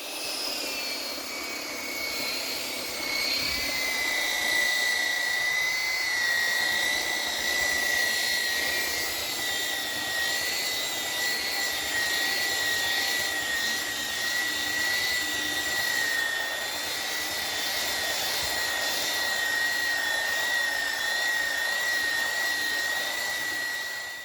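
A handheld electric power tool runs continuously with a steady high-pitched motor whine. The pitch drops a little about three seconds in, as if the motor comes under load, then holds steady until it cuts off abruptly.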